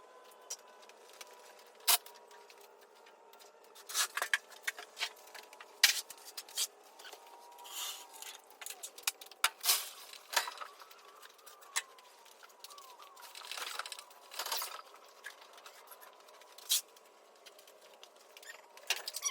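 Scattered clicks, clinks and short scraping noises of hand tools and parts being handled during engine removal, coming at uneven intervals over a faint steady hum.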